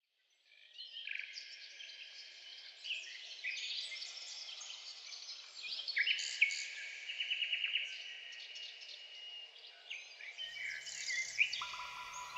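Many songbirds singing at once, with overlapping whistles, chirps and rapid trills. Near the end a low hum and a steady held tone come in beneath the birds.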